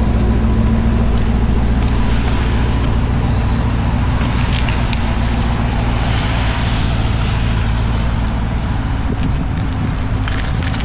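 Car driving at a steady speed: a low, even engine hum under steady tyre and wind noise.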